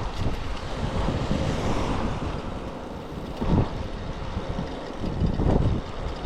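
Typhoon wind blowing across the microphone: a heavy, steady low rumble with stronger gusts about three and a half and five and a half seconds in.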